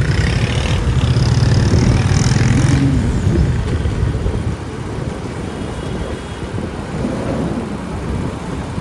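Motorbike engine running amid street traffic, louder for about the first three seconds, then settling to a steadier, quieter rumble.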